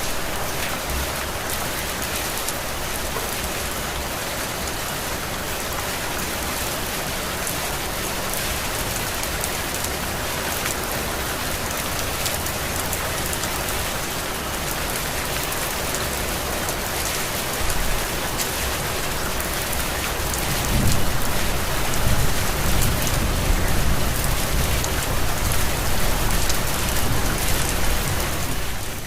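Heavy rain falling steadily as a dense, even hiss. From about two-thirds of the way in, a low rumble swells underneath and becomes the loudest part.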